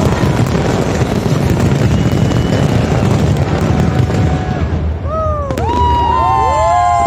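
Fireworks display: a dense, continuous rumble of explosions. About five seconds in, the rumble eases and whoops and cheers from the crowd rise above it.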